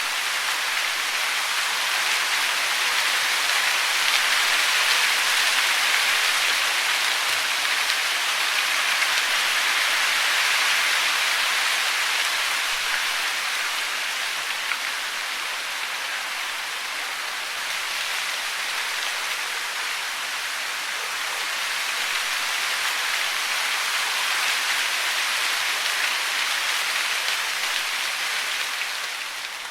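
Steady hiss of falling water, swelling and easing slowly in loudness.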